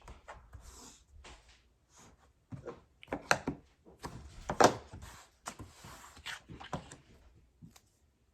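Heavy paper being handled on a work surface: rustling and rubbing with a series of irregular knocks, the loudest about four and a half seconds in.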